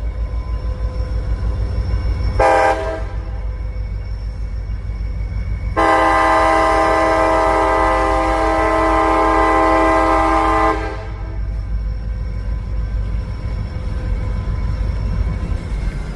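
Freight train locomotive's multi-tone air horn: a short blast about two seconds in, then a long steady blast of about five seconds, over the steady low rumble of the train rolling past.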